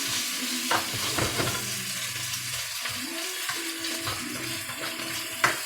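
Garlic and ginger sizzling in hot oil in a frying pan, a steady sizzle broken by a few sharp knocks as it is stirred.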